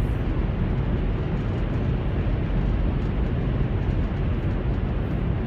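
Steady rumble and hiss of a Chinese high-speed train running, heard from inside the passenger carriage.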